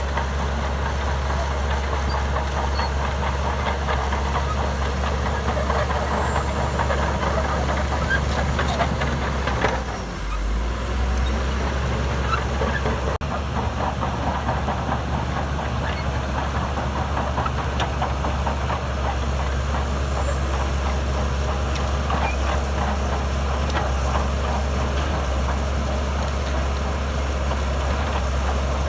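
Shantui DH17C2 bulldozer's diesel engine running steadily under load with a dense mechanical clatter, the engine note dipping briefly about ten seconds in.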